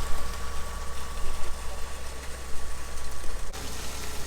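An engine idling steadily, a constant low drone.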